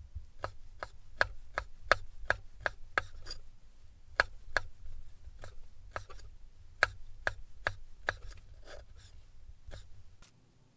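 Knife chopping food on a cutting board: a run of sharp knocks at about three a second, with brief pauses between runs, stopping near the end.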